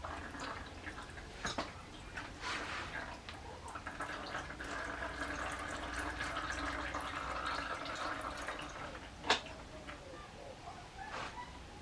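Fork oil trickling and dripping from a motorcycle fork into a catch container, with a sharp click about nine seconds in.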